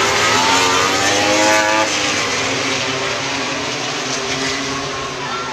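MotoGP racing motorcycles' 1000 cc four-cylinder engines at high revs as they pass. One engine note rises in pitch for nearly two seconds and then breaks off, and further engine notes follow.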